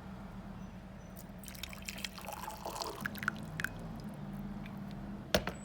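Water in a Chefman electric kettle, dripping and trickling with scattered small ticks over a steady low hum, then one sharp click near the end.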